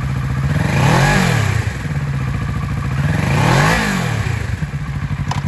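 2019 Kawasaki Ninja 650's parallel-twin engine idling and blipped twice, about a second in and again near four seconds. Each rev rises and falls straight back to idle.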